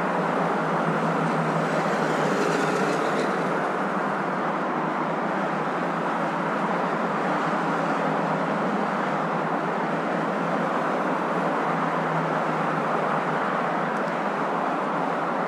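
Steady hum of a moving car, the even road and engine noise of a car ride, with a brief faint high rattle about two seconds in.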